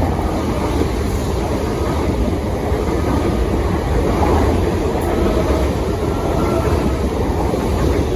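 Southern Class 377 Electrostar electric multiple unit, two units coupled, passing through the station: a steady, loud rumble of wheels on rail.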